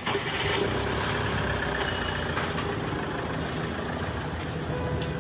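Tata Safari Storme's 2.2-litre diesel engine running steadily after being started, catching just as the sound comes up at the start, following an engine repair on a car that had broken down and been towed in.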